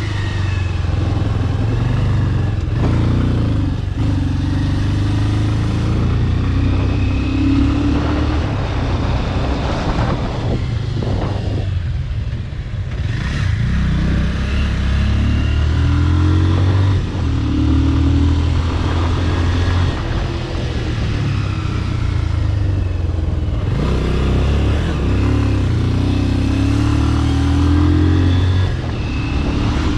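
Motorcycle with a modified exhaust running under way, heard from the bike. The engine note rises and falls with throttle, dipping briefly several times as it eases off or shifts gear.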